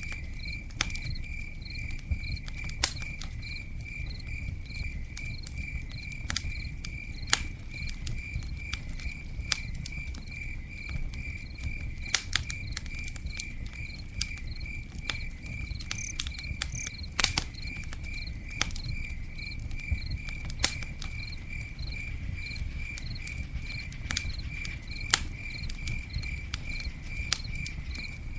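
Campfire crackling, with sharp pops at irregular moments, the loudest about halfway through. Over it a cricket chirps steadily in a quick, even rhythm, above a low rumble.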